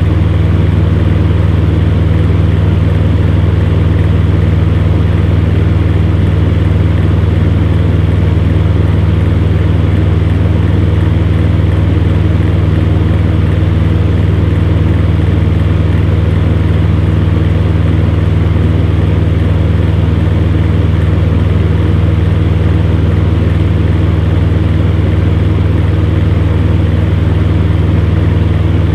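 Electric fan running steadily, a constant low motor hum under an even whoosh of moving air.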